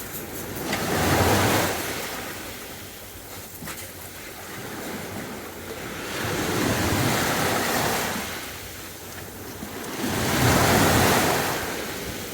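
Sea waves breaking and washing up the beach, the surf swelling and falling away three times, every four to five seconds.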